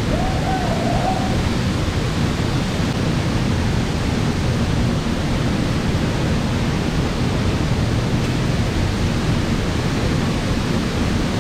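Waterfall rushing, a steady loud roar of falling water without a break.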